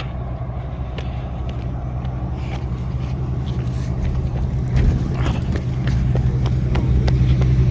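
Nissan 240SX engine idling with a steady low hum that grows slightly louder toward the end.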